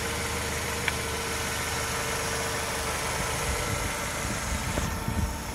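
Gasoline car engine idling steadily, with a small click about a second in.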